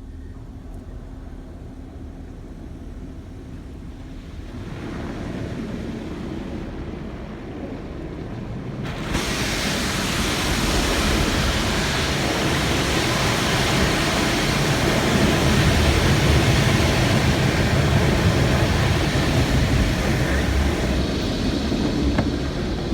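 Water spray from an automatic tunnel car wash hitting the car, heard from inside the cabin: a rushing hiss that builds about four seconds in and turns much louder about nine seconds in, then holds steady.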